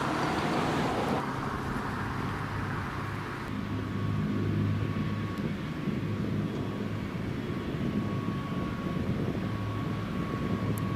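Steady, distant jet engine rumble, plausibly Eurofighter Typhoons on the airfield, with a faint high whine. The sound changes abruptly about a second in and again at about three and a half seconds.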